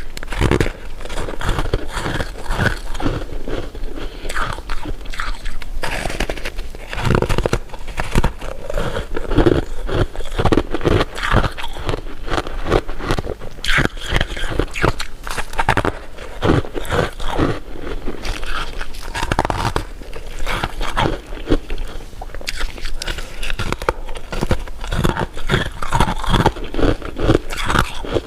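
Close-miked eating of candy: continuous biting, crunching and chewing, with many irregular crackling clicks.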